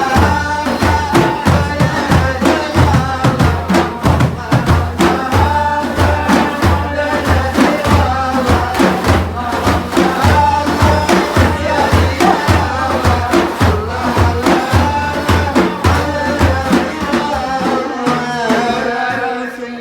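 Sufi devotional praise-chanting (madih): voices singing a wavering melody over a steady beat of frame drums at about two strokes a second, fading down near the end.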